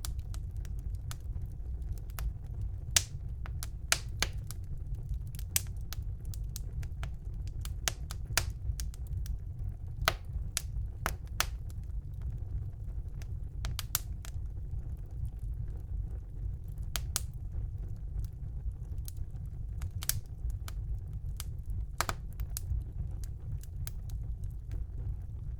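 Wood fire burning in a fireplace: a steady low rumble of the flames with frequent sharp, irregular crackles and pops of the burning wood.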